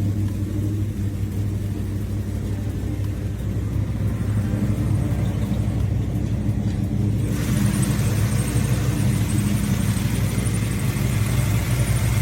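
A car engine running steadily, with a deep even hum; about seven seconds in, a brighter hiss joins it.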